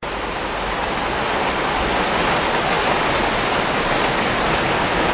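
Heavy rain falling steadily, a dense even hiss onto floodwater.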